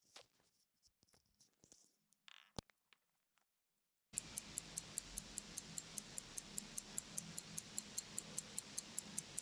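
A few faint clicks and scrapes, then, about four seconds in, the 1916 IWC Schaffhausen calibre 57 pocket-watch movement starts to be heard ticking, evenly at about five ticks a second, over a low hum.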